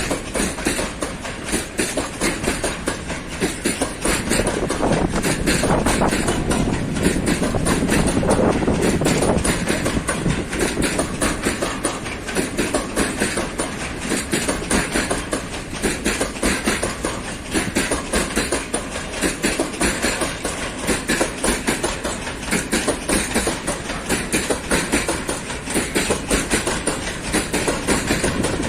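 A train rolling past, its wagon wheels clattering steadily over the rail joints in a fast, continuous run of clicks.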